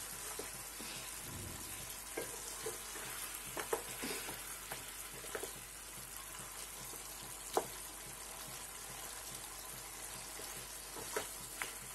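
Chicken pieces in masala sizzling with a steady hiss in a nonstick kadhai, as a wooden spatula turns them. The spatula knocks against the pan a few times.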